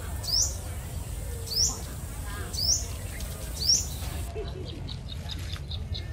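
A bird repeating a short, high, sharp chirp that falls in pitch, about once a second, four times. After the last chirp a faint, fast ticking call carries on.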